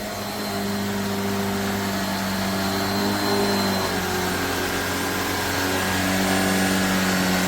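Jimmy JV35 corded mattress vacuum cleaner running with a steady motor hum; its pitch shifts slightly about four seconds in.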